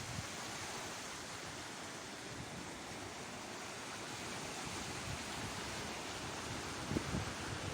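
Sea waves washing onto the shore, a steady rushing surf, with wind buffeting the microphone briefly about seven seconds in.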